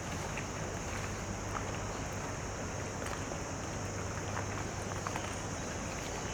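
Harbour-front outdoor ambience: a steady low hum and a steady high-pitched buzz, with scattered light ticks and clicks.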